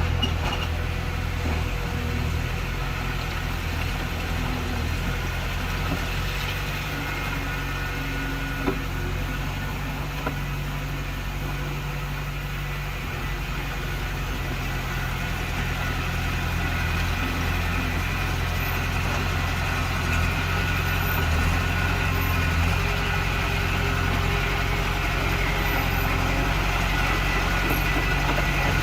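Heavy diesel engine of construction machinery running steadily, growing a little louder in the second half, with one brief sharp click about nine seconds in.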